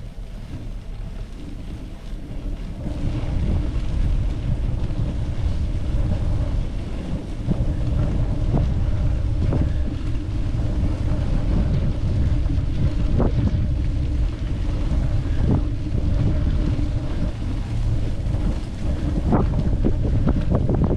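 Wind buffeting the microphone: a steady low rumble that grows louder about three seconds in, with a few short knocks scattered through it.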